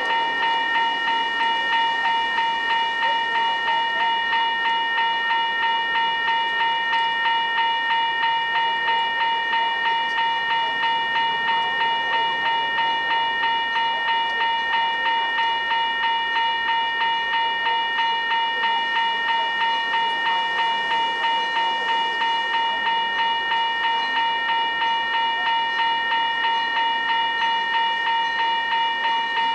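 Railroad grade crossing warning bell ringing steadily, about two strikes a second.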